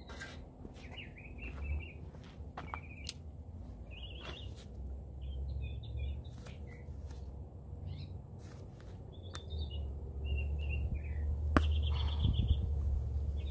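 Small birds chirping in short, high calls again and again over a low rumble, with a few sharp clicks.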